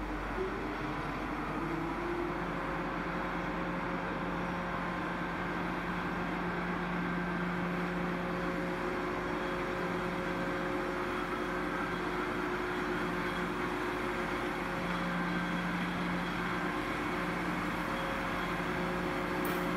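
A train at the station running with a steady mechanical hum: several steady tones over a noisy rumble, holding with little change.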